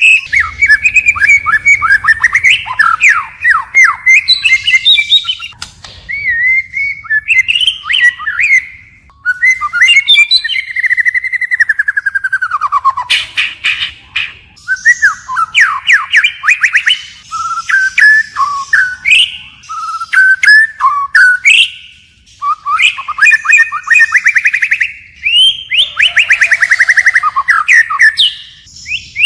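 White-rumped shama singing close and loud: a long, ever-changing song of clear gliding whistles, rapid trills and buzzy runs, phrase after phrase with short pauses between.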